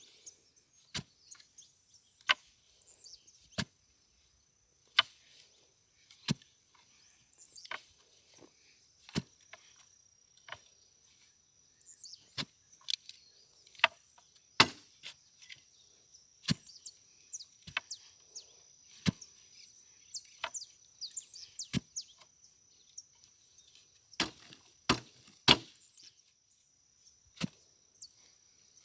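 A hand tool, such as a hoe or pickaxe, striking hard ground over and over to dig a hole, in irregular sharp blows about one every second or two. A steady high insect drone and a few bird chirps run behind it.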